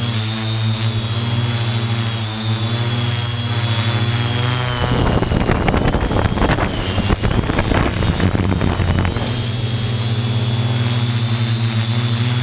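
Multirotor drone's motors and propellers running with a steady hum and a wavering high whine. From about five to nine seconds in, a rough rushing noise buffets over them: wind hitting the microphone in a gust.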